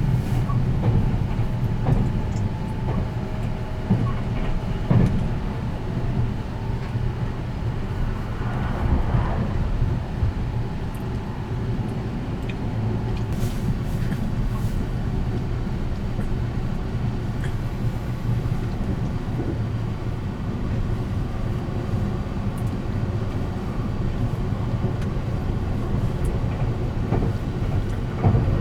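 A 285 series electric sleeper train running along the line, heard from inside the car: a steady low rumble with scattered faint clicks and knocks from wheels and track.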